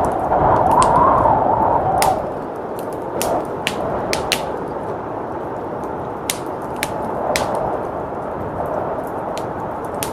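Wood fire crackling in a fireplace, with sharp irregular pops, over the steady rush of blizzard wind. The wind swells in a gust in the first two seconds.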